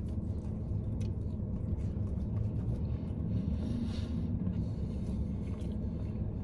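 Steady low rumble of a car idling, heard inside its cabin, with a few faint clicks and a soft swell about four seconds in.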